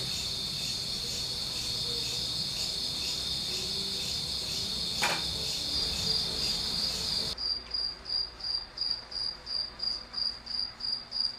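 Insects, crickets by the sound, chirping in a steady high trill that pulses about two to three times a second. There is a single click about five seconds in. Partway through, the low background noise drops away suddenly and the pulsing chirps stand out more clearly.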